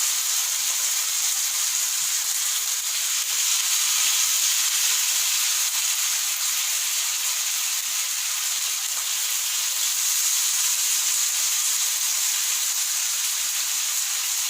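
Skewered, marinated chicken kebabs sizzling steadily as they shallow-fry in hot oil in a pan.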